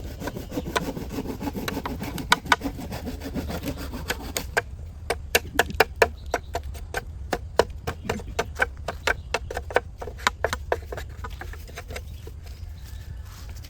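Bamboo being worked by hand. For the first four seconds or so there is scraping and rubbing on the wood with scattered sharp knocks. Then comes a fast run of sharp knocks, about three a second, that thins out near the end.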